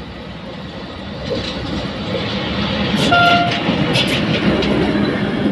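A train passing close by: a rumble that grows louder over the first few seconds, with sharp wheel clicks and a brief steady high tone about three seconds in.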